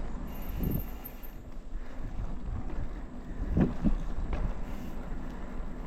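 Wind buffeting the microphone over a steady low rumble as a mountain bike rolls across pavement on a wheelie.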